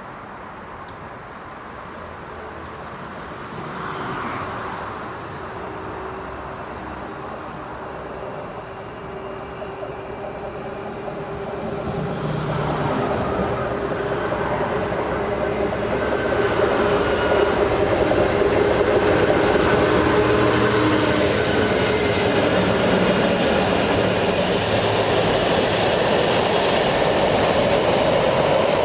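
A train approaching on the line and passing close by, growing louder over the first dozen or so seconds and then running loud and steady.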